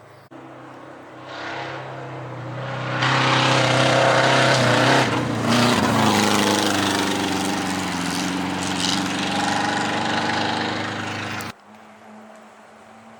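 A rally vehicle's engine running hard under power, swelling louder over the first few seconds and holding high, then cutting off suddenly near the end.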